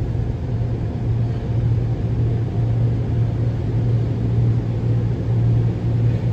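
Steady low droning hum with rumble, heard from inside a car's cabin, its level swelling and easing slightly every second or so.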